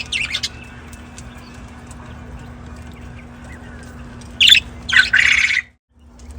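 Budgerigars calling: a couple of loud, harsh squawks at the start and again about four and a half seconds in, with faint chirping between them over a steady low hum.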